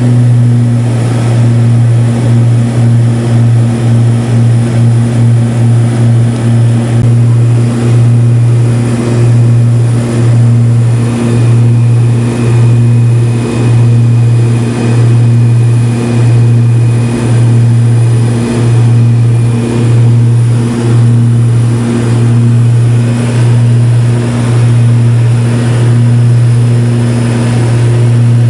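Light aircraft's propeller engine droning steadily at cruise, a loud low hum that swells and fades in a slow, regular beat about once a second.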